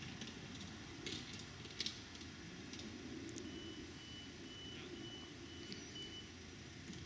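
A string of short electronic beeps at one high pitch, about two a second for some three seconds, over a steady low rumble, with a few short clicks before the beeping starts.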